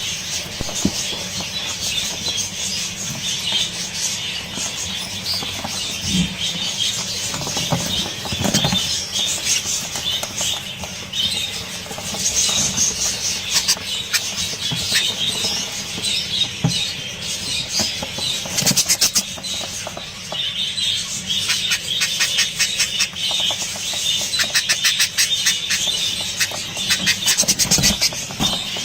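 Budgerigars chirping, squeaking and chattering continuously, many birds calling at once with rapid clicking trills.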